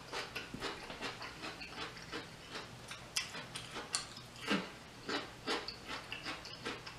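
Close mouth sounds of a person chewing a crunchy raw vegetable: irregular wet crunches, clicks and lip smacks, a few louder ones about three to four and a half seconds in, over a faint low hum.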